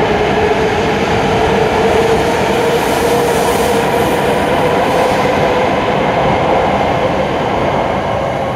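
E7 series Shinkansen electric train pulling out of the platform and running past at close range: steady wheel-on-rail rumble and rushing noise with a steady electric motor whine that rises slightly in pitch at first. The sound only begins to ease near the end as the last car clears.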